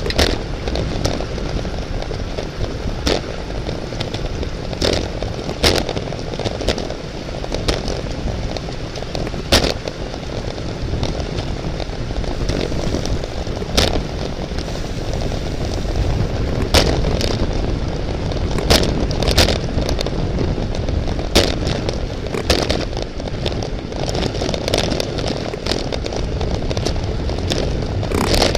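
Steady rush of wind and road rumble from a bicycle ridden at race speed, broken by irregular sharp clicks and knocks.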